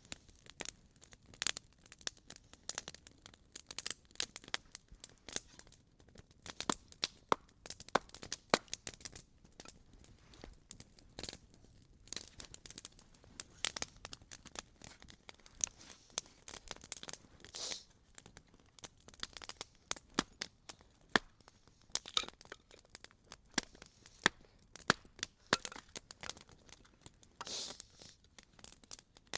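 Campfire crackling and popping: irregular sharp snaps of burning wood, a few louder pops among many small ones.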